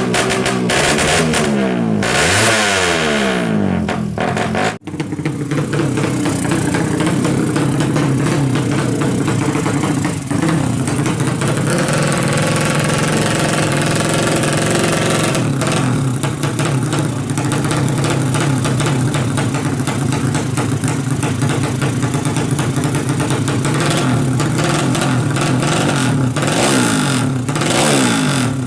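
A Yamaha Jupiter Z motorcycle's single-cylinder four-stroke engine, built up to 200cc for racing, is revved up and down for the first few seconds. The sound breaks off for an instant, then the engine runs steadily at a fast idle, with another rise in revs near the end.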